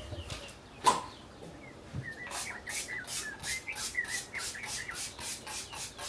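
A bird chirping, a quick run of repeated notes about four a second lasting three to four seconds. A single sharp click comes about a second in, before the chirping.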